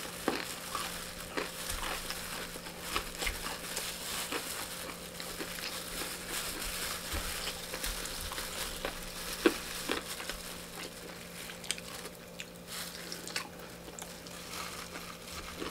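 Close-miked eating sounds: chewing a mouthful of fried chicken and rice, with many small clicks and crinkles from a plastic-gloved hand scooping rice on a foil-lined tray, over a low steady hum.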